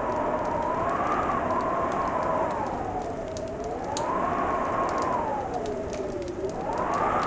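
Wind howling, its pitch rising and falling in slow waves over a steady hiss, with scattered sharp crackles and pops from a wood fire.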